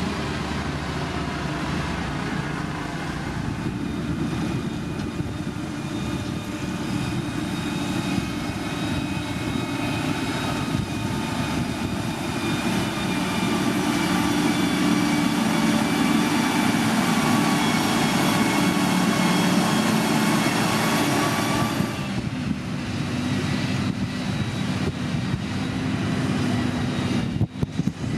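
Heavy diesel construction machine engine running steadily, with a high whine over the engine note. It grows louder in the middle stretch and changes abruptly about three-quarters of the way through.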